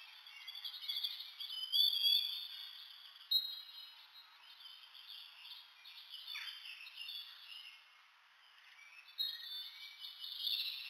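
Small birds chirping and twittering, with one sharp click about three seconds in.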